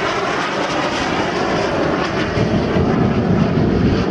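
Turbojet engines of Aermacchi MB-339PAN jet trainers in flight, a loud, steady jet noise with no break.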